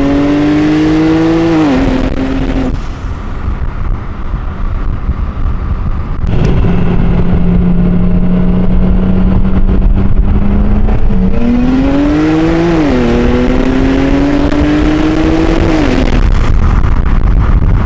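Single-turbo BMW 335i straight-six under hard acceleration, revs climbing and dropping sharply at gear shifts. It shifts about two seconds in, holds a steady engine note for a few seconds, then pulls again and shifts up before lifting off near the end.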